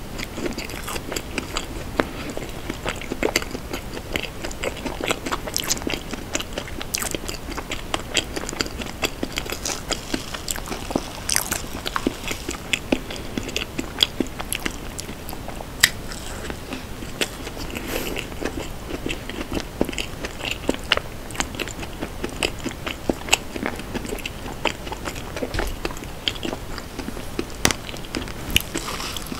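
Close-miked chewing and mouth sounds while eating spoonfuls of mugwort-injeolmi tiramisu: a steady run of many small clicks and smacks, with an occasional tap of a wooden spoon on the plastic cup.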